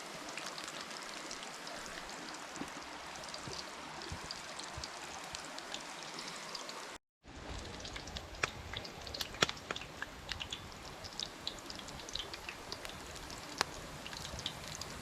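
Breaded chicken cutlets frying in oil in a skillet over a campfire: a steady sizzle with frequent sharp pops and crackles, more of them in the second half. It cuts out briefly about seven seconds in.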